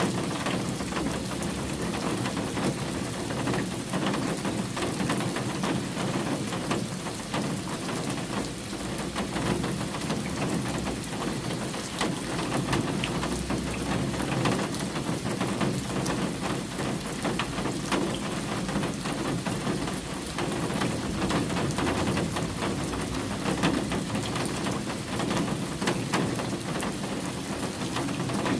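Steady rain falling, with a dense stream of sharp individual drop hits.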